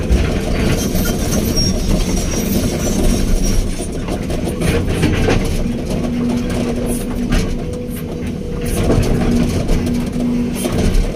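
Backhoe excavator's diesel engine running steadily under work, with a steady whine that grows stronger in the second half and a few scattered metallic knocks.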